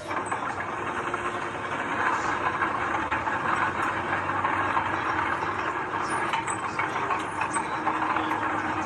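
Heavy earthmoving machine running at a steady, loud level, with a dense rattling clatter of metal over the engine noise.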